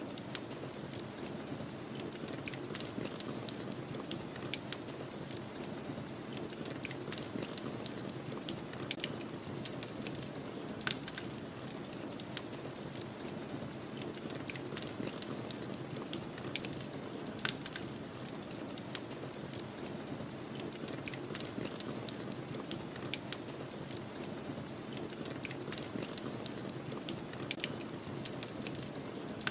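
Wood fire crackling, with frequent sharp, irregular pops over a steady low rush of snowstorm wind.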